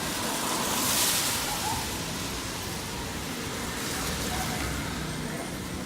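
Steady hiss of a wet street in light rain, swelling briefly about a second in and again more softly around four seconds.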